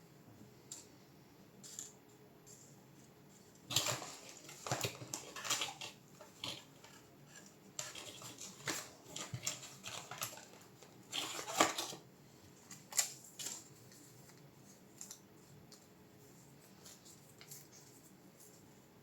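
Irregular clicks, scrapes and rustling of small hard parts and tools being handled, busiest from about four to thirteen seconds in, with sharper knocks about four and eleven seconds in.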